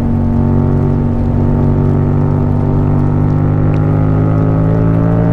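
Yamaha MT-07's parallel-twin engine running through an Akrapovic exhaust under steady throttle, its note rising slowly as the bike gains speed.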